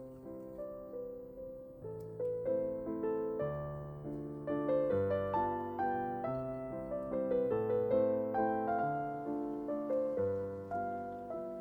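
Background piano music: a gentle melody of single notes over low sustained bass notes, each note striking and fading.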